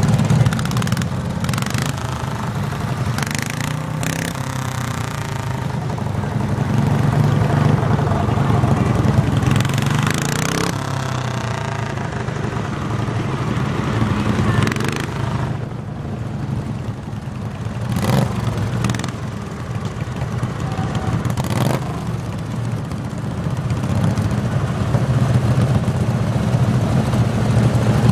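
Garden tractor engine running hard and steady throughout, its pitch shifting slightly, with a few sharp clacks over it.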